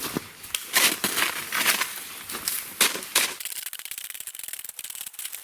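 Crunching in packed snow: several irregular loud crunches in the first three seconds, then a fine, rapid crackle.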